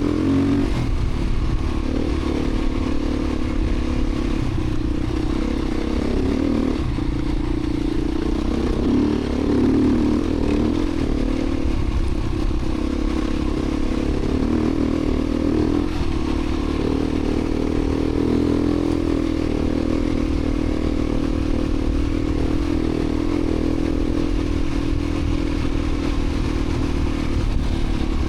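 Beta 350 RRS dirt bike's single-cylinder four-stroke engine running continuously while riding, its note rising and falling with the throttle.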